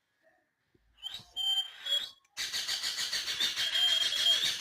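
Pet parrot giving harsh, raspy calls: a short one about a second in, then a longer drawn-out one near the end.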